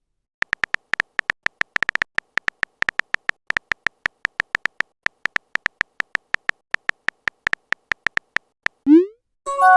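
Smartphone keyboard typing sound effect: a quick, uneven run of tapping clicks that lasts about eight seconds. It ends with a short rising swoosh as the message is sent, followed by a ringing message-notification chime.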